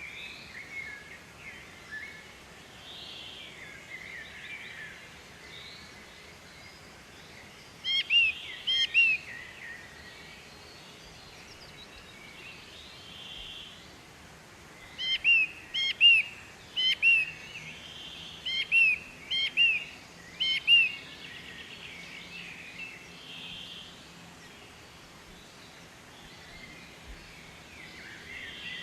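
Several birds calling, with one bird loudly repeating short, sharp, arched whistled notes in quick groups, once about eight seconds in and then again and again for several seconds past the middle, over softer chirping from other birds.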